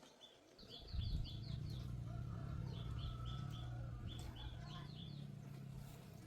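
A bird calls in quick runs of short, high chirps. About a second in, a louder low, steady motor hum starts abruptly and slowly fades.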